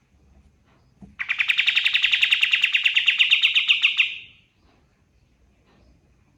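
Kapas tembak bird giving a fast, rattling trill of about a dozen sharp notes a second. It starts about a second in and lasts some three seconds.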